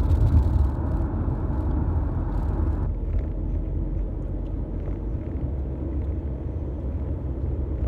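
Road and engine noise inside a moving car's cabin: a steady low rumble with a hiss of tyre noise above it that thins out about three seconds in.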